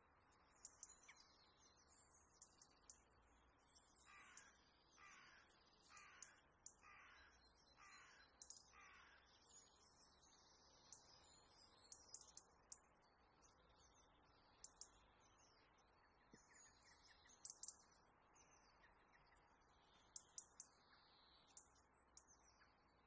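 Faint bird calls in the background: a run of six calls about a second apart, over scattered high chirps throughout.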